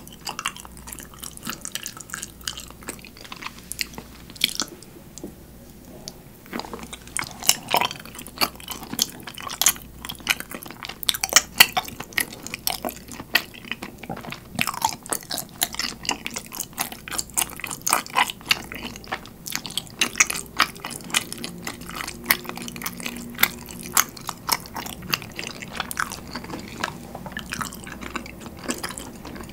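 Close-miked chewing of chewy rice-cake dango in a thick sweet soy glaze: many quick mouth clicks and smacks, with a short lull about five seconds in.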